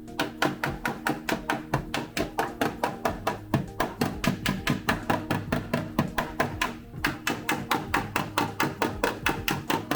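Rapid hammer blows on the steel body panel of a Toyota AE86, about four to five a second, pausing briefly twice: panel beating to work out distortion in the sheet metal. Background music plays underneath.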